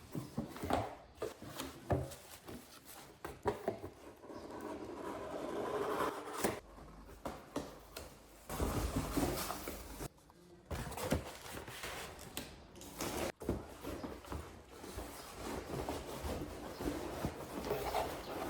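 Objects being handled: scattered knocks, clicks and rubbing noises, with a few louder thumps.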